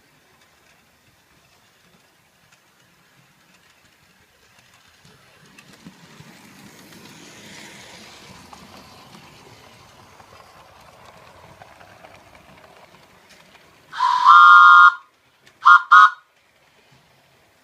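A faint rumble, typical of a train passing, swells and fades. Then a train horn sounds a loud multi-note chord: one blast of about a second, and a shorter one soon after.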